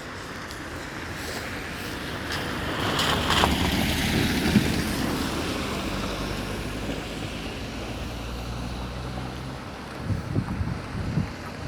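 A motor vehicle going by on the road: engine and tyre noise swell about three to five seconds in and fade, with wind buffeting the microphone.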